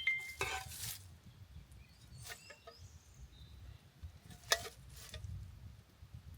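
A short rustling scrape, then two sharp knocks about two seconds apart, the second the loudest, over a faint steady low rumble.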